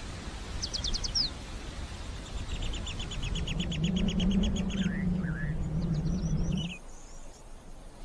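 Wild birds calling: short bursts of high chirps, then a fast trill of evenly spaced notes lasting about two seconds, a pair of short whistled glides, and more chirps. Under them runs a low rumble, with a low wavering hum in the middle that cuts off suddenly.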